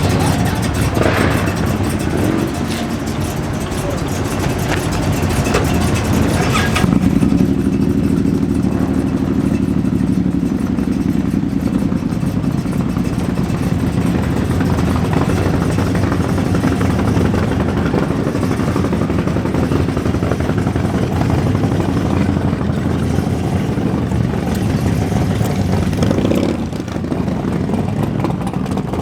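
Engines of American muscle cars and hot rods running loudly at low speed, with a brief rev about a second in and another near the end; a deeper, steady engine note takes over about seven seconds in.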